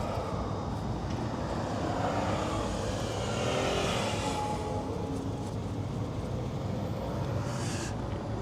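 Steady low vehicle rumble with a few faint gliding tones, and a short hiss near the end.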